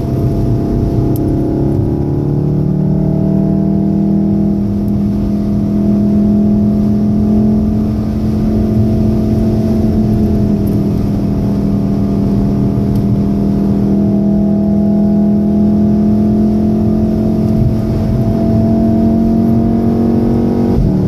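VW Golf VII R's turbocharged 2.0-litre four-cylinder engine running under load at high speed, heard from inside the cabin. Its pitch rises a little in the first couple of seconds, then holds steady.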